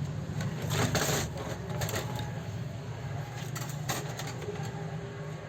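Scattered clicks and light metallic taps over a steady low hum, typical of small metal parts of an overlock sewing machine being handled during repair, with a cluster of clicks about a second in.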